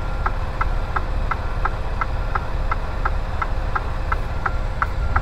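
A backup alarm beeping steadily, about two and a half beeps a second, over the low rumble of an idling semi-truck diesel engine.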